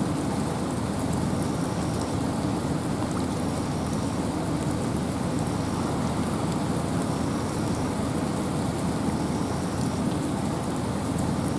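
Steady rain and wind in a forest: a constant hiss with a deep low rumble underneath and scattered drop ticks.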